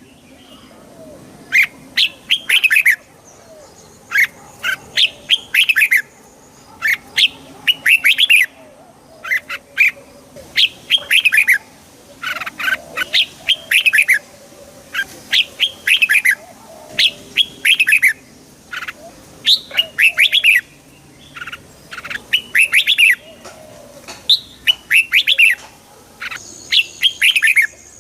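Red-whiskered bulbul singing: short, bright warbled phrases of quick falling notes, repeated every second or two with brief pauses between.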